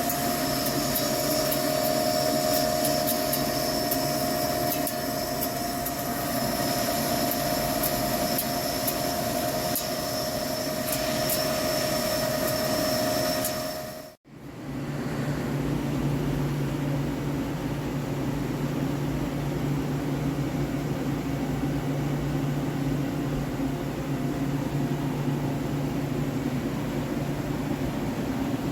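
Hankook heavy-duty CNC lathe turning a steel forging, a steady machining hum with scattered light clicks. About halfway the sound cuts abruptly to another stretch of cutting with a lower, steady hum.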